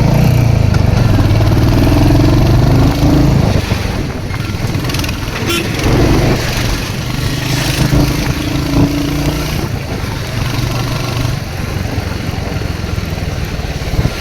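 Royal Enfield Hunter 350's single-cylinder engine running while the bike is ridden. The engine is louder for the first three seconds or so, then quieter.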